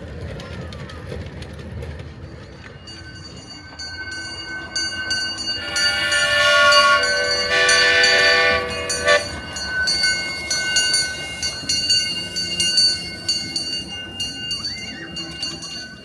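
Steam whistle of a small-gauge steam locomotive blowing two long blasts in the middle, over the train running on the rails. A high, steady squeal carries on alongside from a few seconds in.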